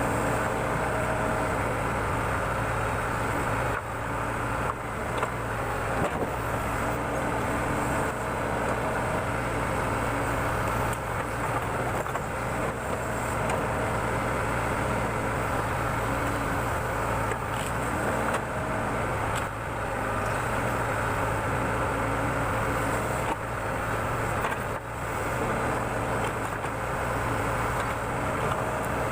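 Diesel engine of a backhoe loader running steadily at working speed while it digs, with a few short knocks scattered through.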